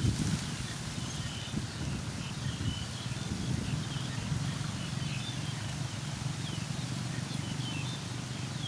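Scattered short, faint bird chirps, dozens of them throughout, over a steady low rumble of outdoor background noise.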